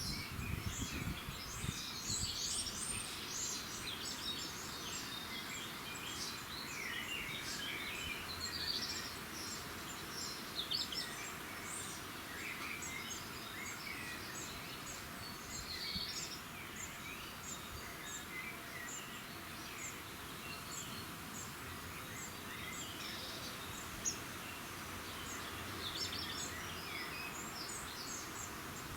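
Dawn chorus: many small birds chirping and trilling at once, the calls overlapping without pause over a steady background hiss.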